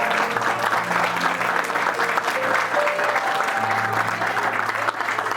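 Audience applauding steadily, with recorded music playing underneath: held notes and a low bass line.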